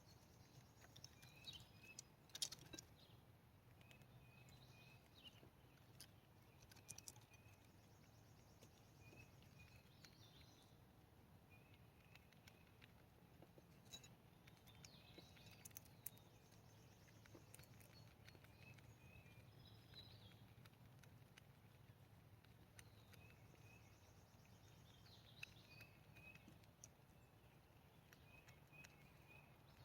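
Faint outdoor ambience: small birds chirping faintly, short high chirps in runs of two or three that keep repeating, with scattered light clicks and taps.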